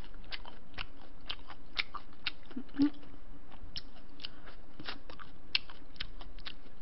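Close-miked chewing of crispy breaded tonkatsu (fried pork cutlet): a steady run of sharp crunches, several a second.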